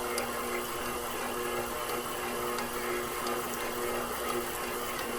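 KitchenAid Professional 6000 HD stand mixer's DC motor running steadily, turning the spiral dough hook through bread dough. The hum holds an even pitch with faint scattered clicks. The load is light because the buttery dough slides around the bowl without forming a ball.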